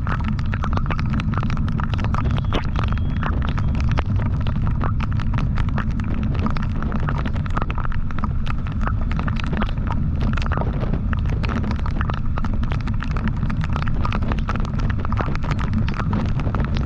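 Motorcycle riding at speed: the engine and a steady heavy wind rumble on the microphone, with many sharp crackles throughout.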